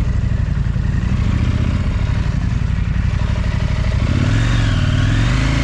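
Big parallel-twin adventure motorcycle running over rough off-road ground, with rattling and clatter from the bike. About four seconds in, the engine revs rise and fall.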